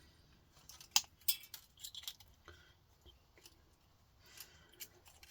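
Scattered sharp clicks and snips of a metal hand tool working stubborn components off a power-supply circuit board, the loudest click about a second in, with a short scrape near the end.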